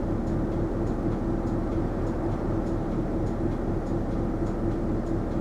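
Isuzu Erga non-step city bus heard from inside the cabin while under way: a steady drone of engine and road noise with a constant hum. Faint, even ticks come through about every 0.6 seconds.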